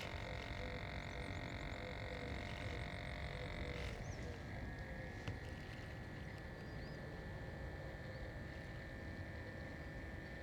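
Battery-powered portable espresso maker's pump whirring steadily while it dispenses coffee; its pitch drops slightly about four seconds in.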